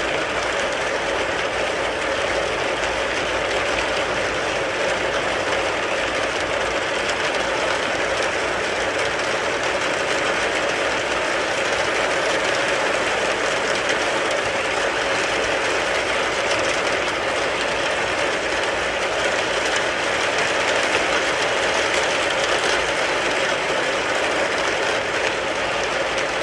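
Rain falling on a car, heard from inside it as a steady, dense wash of noise with no let-up.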